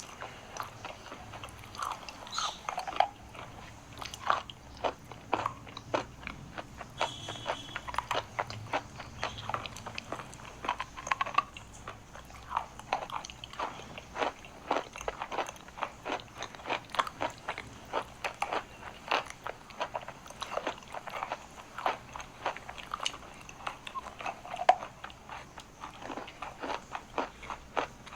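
Chalk being bitten and chewed close to the microphone: a steady run of crisp, irregular crunches and snaps.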